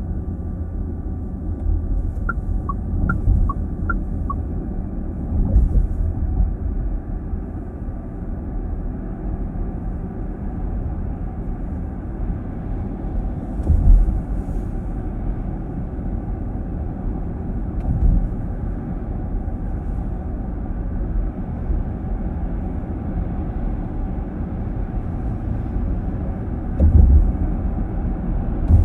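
Road and tyre noise inside a moving car's cabin: a steady low rumble, with occasional short thumps from the tyres over the road surface, the loudest near the end. A few faint short beeps sound a couple of seconds in.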